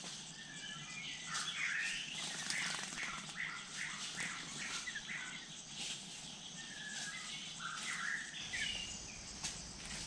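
Forest birds calling, with chirps and short whistled notes and a run of repeated notes at about two a second in the middle, over a steady high insect hiss.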